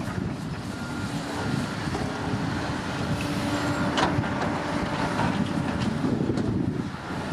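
Komatsu D65P bulldozer's diesel engine running steadily under working load, with a short sharp click about four seconds in.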